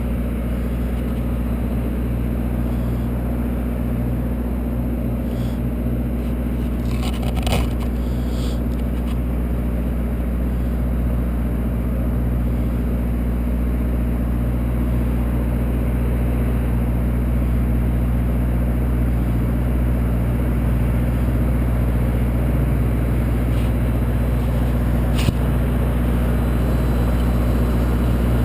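Engine idling steadily, with a brief knock about seven seconds in and a sharp click about 25 seconds in.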